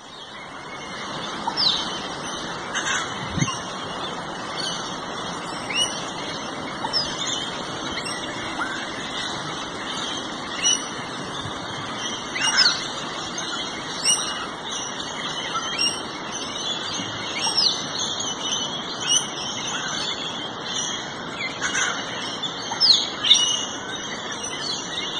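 Many birds chirping, with short falling whistles standing out every second or two.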